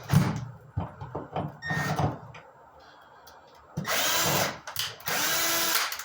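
Power drill driving screws into a drywall patch, in several short runs with a quiet pause in the middle; the motor speeds up and slows down with each screw.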